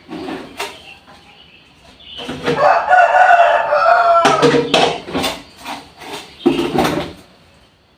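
A rooster crowing once loudly, one long call of about two seconds, followed by a few shorter calls.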